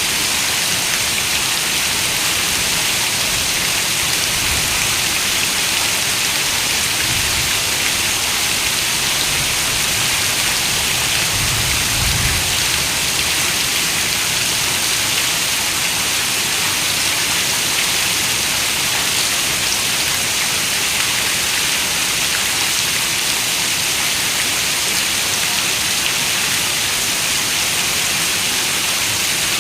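Heavy rain falling on a window: a steady, even hiss of dense raindrops, with a brief faint low rumble about twelve seconds in.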